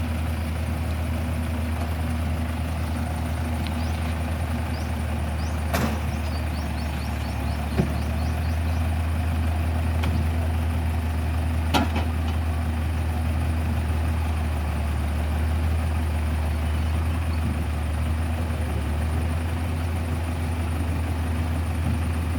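Diesel engine running steadily at a low idle-like speed, with a few sharp knocks about a quarter and half of the way in.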